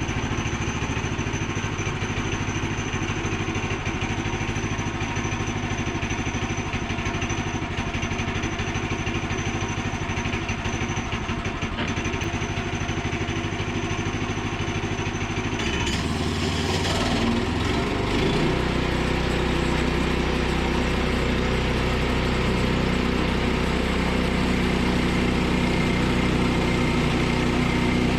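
Engine of a Woodland Mills portable bandsaw mill running steadily. About sixteen seconds in the sound shifts and settles into a lower, steadier tone.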